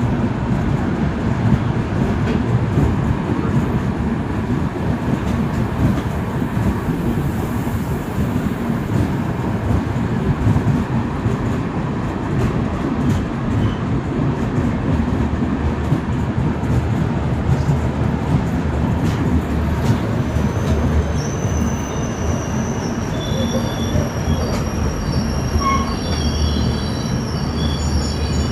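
Train rolling past: a steady, loud rumble of wheels on the rails. From about three-quarters of the way through, high-pitched squealing from the wheels joins in.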